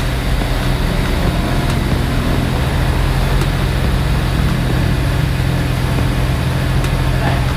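Honda Civic FC's 1.5 L turbocharged four-cylinder engine running steadily through a custom stainless-steel downpipe and exhaust system with a valvetronic valve. The note is a steady hum with no revving.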